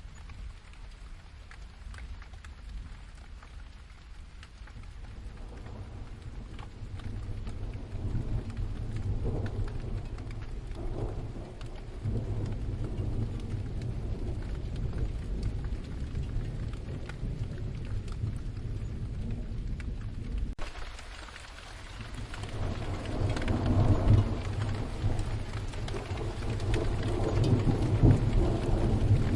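Steady rain with rolling distant thunder. A low rumble builds about five seconds in and carries on for some fifteen seconds before dying away, then a second roll swells up near the end.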